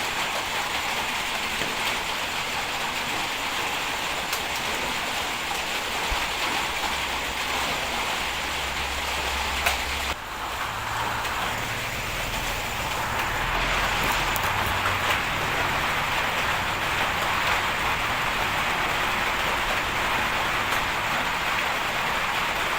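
Heavy bulldozer's diesel engine running under a steady hiss, with a low hum coming and going. The sound changes abruptly about ten seconds in, after which the low engine hum is stronger and slightly louder.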